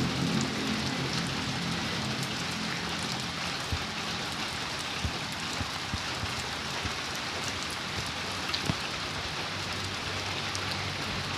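Steady rain falling, an even hiss with a few louder drops tapping now and then.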